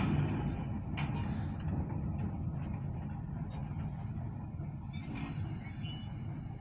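Steady low engine rumble, with a sharp knock about a second in and faint thin high-pitched squeals near the end.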